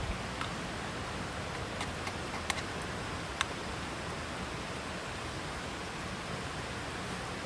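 Steady hiss of rain falling, with a few sharp clicks or pops in the first few seconds.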